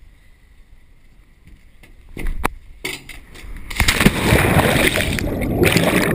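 Loud water splashing and sloshing close to the microphone, setting in about four seconds in after a brief knock of water.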